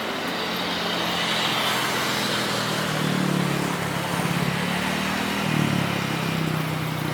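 Steady engine noise under a broad rushing roar, with the low hum swelling and wavering from about three seconds in.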